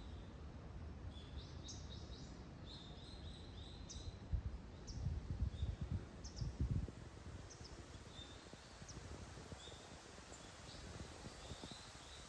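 Small birds chirping in short, repeated calls over a steady low outdoor background. About four seconds in, a low rumble swells for a few seconds, then fades.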